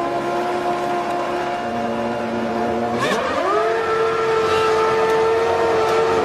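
Formula One car's V10 engine running at a steady pitch, then revving up about three seconds in and holding a higher steady note.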